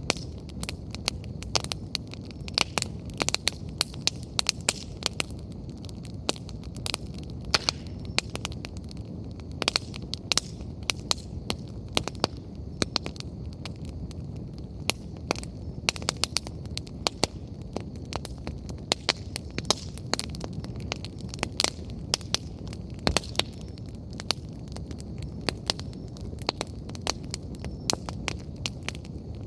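Wood fire burning with frequent sharp crackles and pops over a steady low rumble of the flames.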